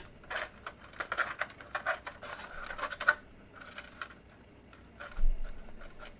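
Irregular small clicks and scrapes of wires and hand tools being worked at a fluorescent light fixture, with one louder knock about five seconds in.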